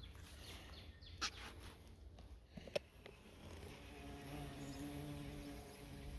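Honeybees buzzing in flight, faintly, with a steadier, clearer buzz from about four seconds in as a bee comes close. Two short clicks in the first three seconds.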